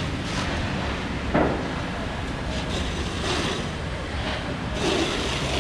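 Steady low mechanical rumble, with a sharp knock about a second and a half in and patches of hiss later on.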